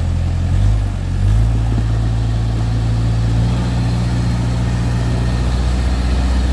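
Off-road 4x4 vehicle's engine running at a low, steady note. Its pitch shifts briefly about a second in, then holds steady.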